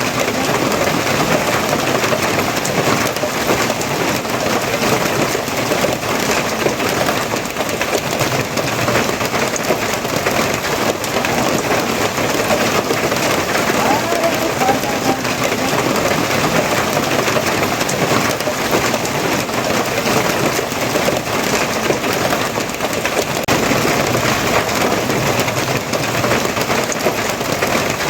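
Steady rainfall: a dense, even hiss of rain on surfaces that does not let up.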